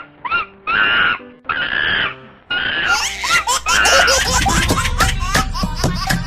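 Monkey calls: a run of short, high-pitched hoots one after another. About three seconds in, upbeat children's music with a steady beat comes in.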